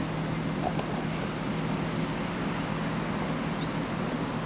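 Steady low hum, most likely an idling engine, over even outdoor background noise. The hum fades about three seconds in.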